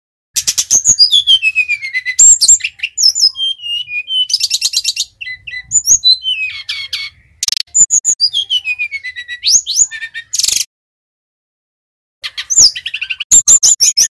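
Sikatan rimba dada coklat (SRDC) flycatcher singing a loud, fast song of clear whistles, falling glides and quick trills, broken by a pause of about a second and a half near the end.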